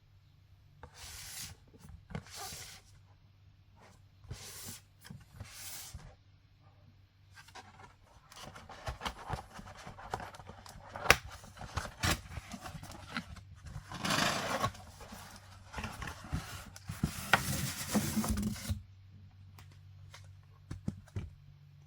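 Statue packaging being handled: a few short rubbing strokes, then about ten seconds of denser scraping and rubbing with sharp clicks, which stops a few seconds before the end.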